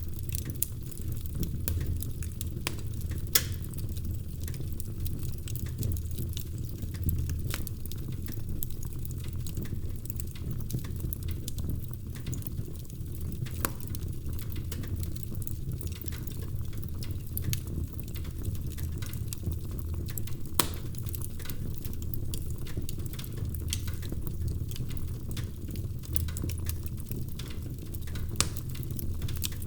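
Wood fire in a fireplace crackling: a steady low rumble of flame with frequent small sharp pops and snaps, and a few louder pops scattered through.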